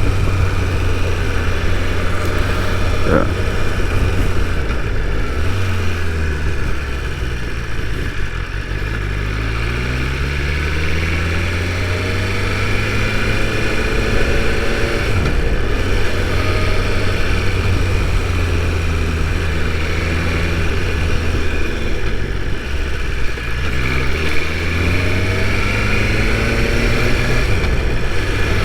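BMW S1000RR inline-four engine running under way, its pitch falling as the bike slows and climbing again as it accelerates, twice. Wind noise gets into the helmet microphone.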